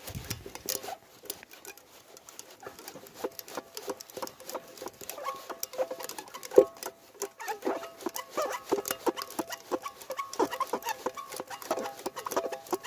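Fishing reel being cranked to wind in a hooked trout: rapid irregular clicking with short squeaky tones. A sharp knock comes about six and a half seconds in.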